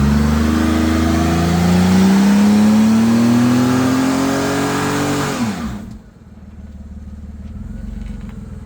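A car's engine accelerating hard, its pitch rising steadily for about five seconds, then cut off abruptly about six seconds in, leaving only a faint low rumble.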